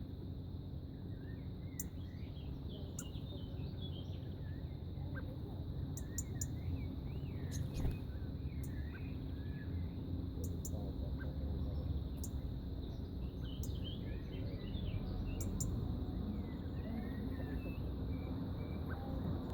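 Small bird chirping and twittering in short, quick, rising and falling notes again and again, over a steady low background rumble.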